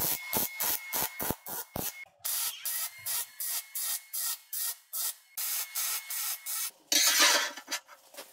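Repeated rasping strokes, about two to three a second, then a short steady hiss near the end.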